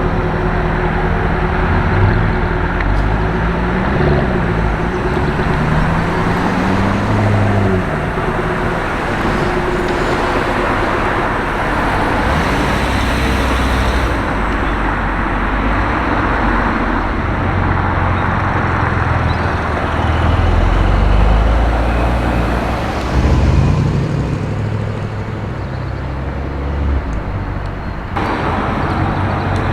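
Road traffic with car engines running and passing. One engine's note rises and falls a few seconds in, and a heavier low engine sound swells about twenty seconds in.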